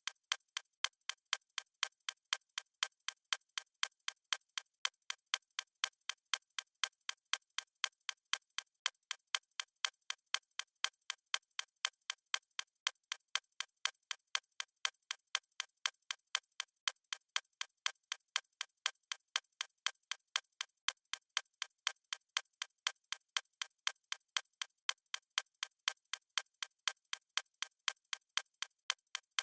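Fast stopwatch ticking sound effect: sharp, light clicks repeating at an even, rapid pace several times a second, never changing.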